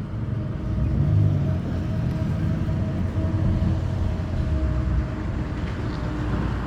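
Low rumble of street traffic with a vehicle engine running, swelling about a second in.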